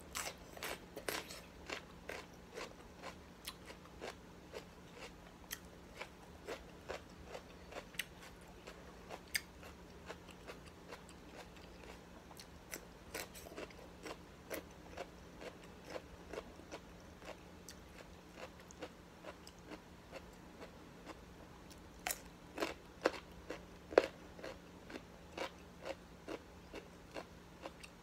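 Close-up crunching and chewing of crisp raw vegetables, starting with a bite of yellow bell pepper: short crisp crunches about two a second, with a louder run of bites about three quarters of the way through.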